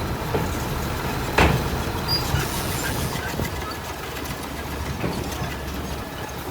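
Heavy diesel earthmoving machinery running steadily, with a sharp metallic knock about a second and a half in and a few lighter knocks after it.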